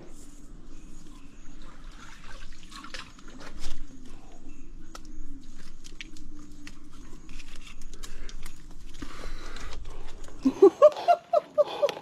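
Scuffling clicks, scrapes and knocks of a large mud crab being grabbed and handled by hand, with one sharp knock a few seconds in. Near the end, a man's short voiced grunts or exclamations.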